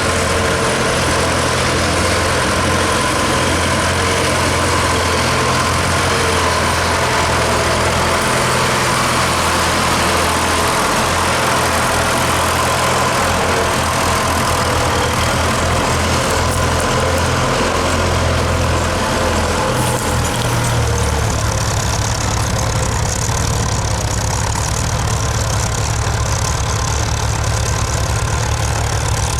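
Diesel tractor engine running steadily, with a deep, low engine note that shifts about twenty seconds in.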